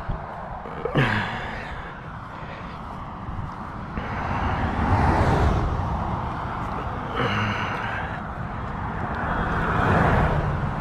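Road traffic on the bridge overhead, swelling as vehicles pass about midway and again near the end, with two short sighs, about a second in and after seven seconds.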